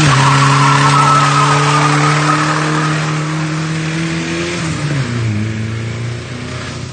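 Honda Civic engine with a rod knock held at high revs during a burnout, tyres spinning and squealing against the held e-brake. About five seconds in the revs drop to a lower steady note.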